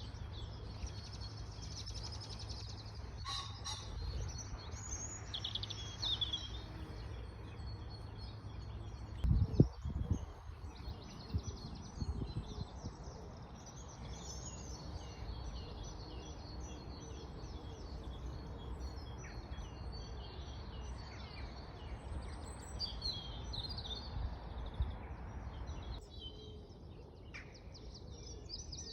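Several songbirds chirping and singing in overlapping short phrases over a steady low outdoor rumble, with a brief low thump about nine and a half seconds in.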